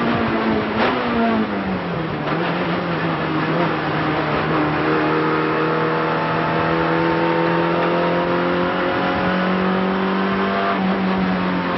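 Renault Clio race car engine heard from inside the cabin: the revs fall sharply in the first two seconds, then climb slowly and steadily under load through the rest. Two short knocks come in the first few seconds.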